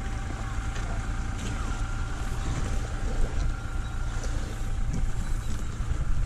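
Steady low rumble of a Toyota SUV's engine idling, heard through the open driver's door. A faint steady tone runs over it for the first four seconds or so.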